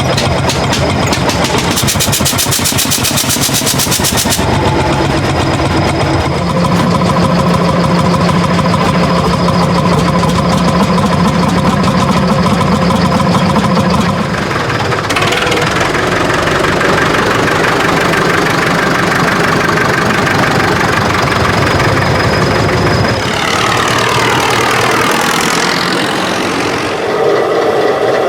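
Old tractor engines running, heard in several clips one after another, each with a steady firing beat. The engine note changes abruptly at each cut, and near the end it falls away.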